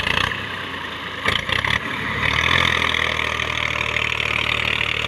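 Tractor engine working under load as it tries to pull a wood-laden trolley stuck in sand, with a few knocks about a second in. The engine gets louder and steadier about two seconds in.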